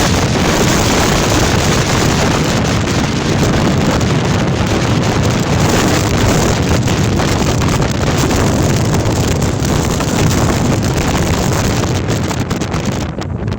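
Gale-force storm wind blasting the microphone: a loud, steady roar of wind noise, easing slightly near the end.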